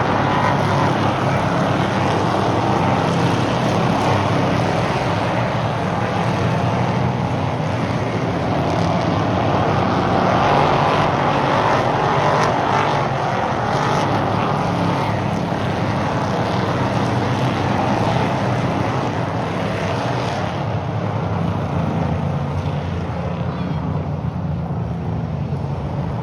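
Stock race car engines running at speed around an oval track, a continuous engine drone with no breaks. The sound turns slightly duller about twenty seconds in.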